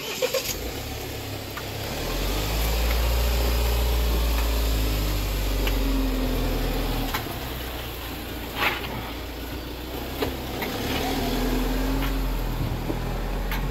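Car engine running with a low drone that rises about two seconds in, eases off in the middle and pulls harder again near the end, with a few light clicks over it.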